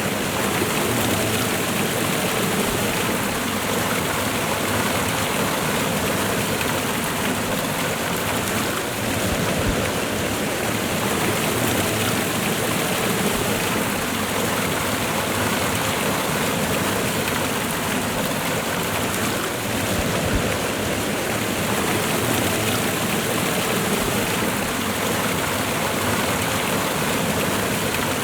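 Steady rushing of a waterfall and running river water, a constant even noise with no breaks.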